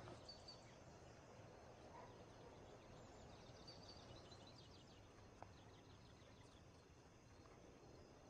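Near silence: faint outdoor ambience with a few distant bird chirps, including a short high trill about four seconds in.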